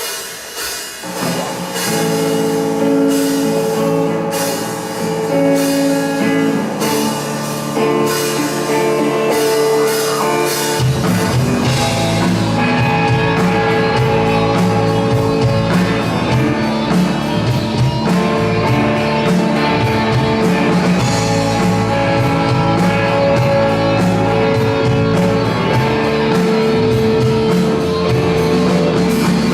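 Live rock band playing: a guitar-led intro with light percussion, then bass and drums come in fully about eleven seconds in and the band carries on at full volume.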